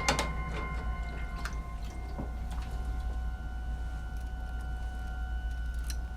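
A sharp knock or click right at the start, followed by a few fainter clicks, over a steady low hum with a thin high whine.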